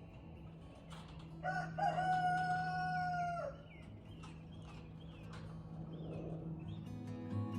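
A rooster crowing once, one long held call of about two seconds, followed by small birds chirping. Acoustic guitar music starts near the end.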